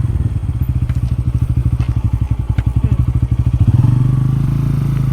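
A car's engine running with a low, fast pulsing throb, which turns steadier and louder about three and a half seconds in.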